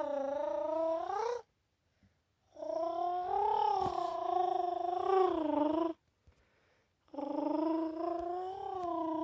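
A kitten giving three long, drawn-out, wavering cries, separated by short pauses.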